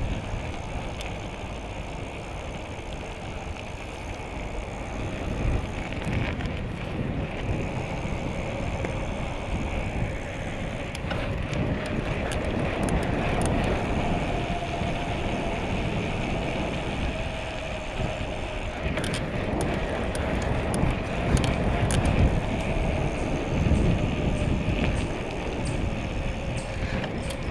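Riding a bicycle: wind rumbling on the microphone over tyre and road noise, with a faint steady whine through the second half and a few light clicks.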